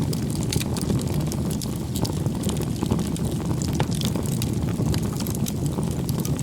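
Firewood burning in a bonfire: a steady low rumble of the flames with frequent irregular crackles and pops from the burning wood.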